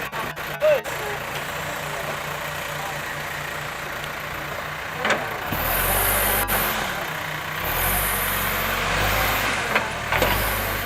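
Diesel engine of heavy earthmoving machinery running steadily, a few knocks in the first second, then growing louder about halfway through with repeated bursts of high hiss.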